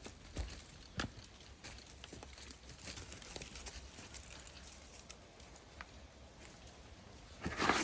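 Footsteps walking on a woodland trail: scattered soft knocks and crunches, with a louder rustling thump near the end.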